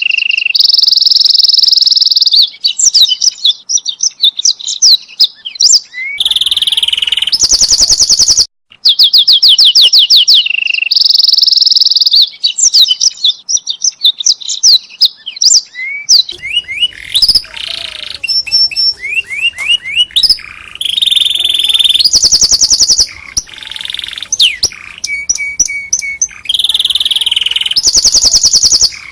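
Domestic canary singing a long, loud song of rapid trills, quick repeated notes and long held high notes, with one brief pause about eight and a half seconds in.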